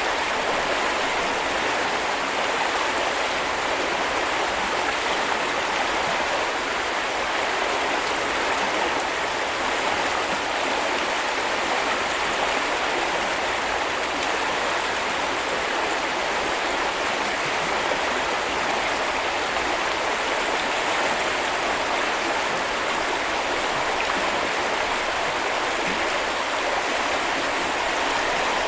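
Small river or brook flowing over stones: a steady rushing and babbling of water that does not change.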